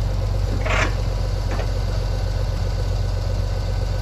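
An engine idling steadily with a deep, even rumble. A short burst of noise comes about three-quarters of a second in.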